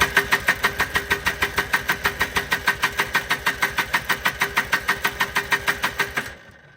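1995 Polaris Trail Boss 250 ATV engine being cranked over, with an even chuffing of about six compression strokes a second, but not catching. The cranking stops about six seconds in.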